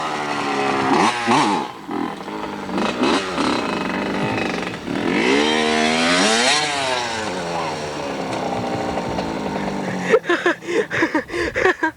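Dirt bike engine revving as it is ridden, its pitch rising and falling, climbing to a peak a little past the middle and dropping away. The engine sound gives way about ten seconds in to a few short, choppy sounds.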